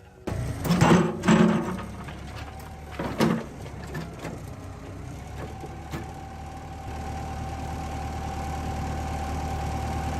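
A few loud clanks and bangs in the first three seconds, then a machine engine running at a steady idle from about five seconds in, its drone growing slightly louder toward the end.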